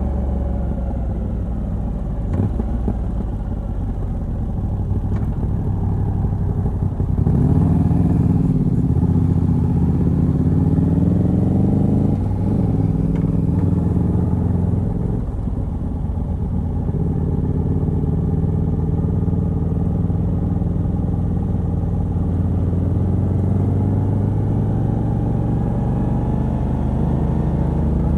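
Moto Guzzi V85TT's air-cooled transverse V-twin, running through a stock exhaust with a decat pipe, heard from the rider's seat while riding. The engine note rises and gets louder about a quarter of the way in as the bike pulls, dips briefly a couple of times, then settles into a steady cruise.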